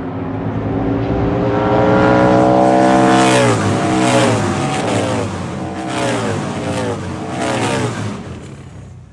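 Harley-Davidson Road Glide bagger race bikes going past on the track, their V-twin engines' note climbing as they approach and dropping sharply about three seconds in. The note then dips and rises several more times before fading away near the end.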